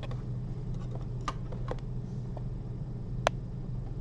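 Steady low hum with a few small, sharp clicks of surgical instruments being handled, the sharpest about three seconds in.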